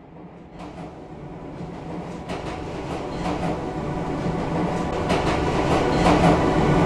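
Diesel locomotive approaching and growing steadily louder: a low engine drone, with its wheels clicking over rail joints in short clusters.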